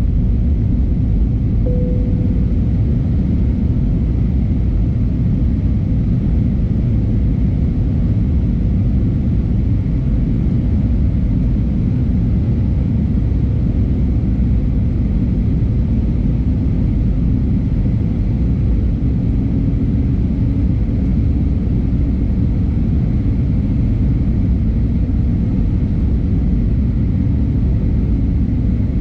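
Steady cabin rumble of an Airbus A320neo with Pratt & Whitney PW1100G geared turbofans, a deep, even roar of engines and airflow heard at a window seat. A faint hum rises slightly in the second half.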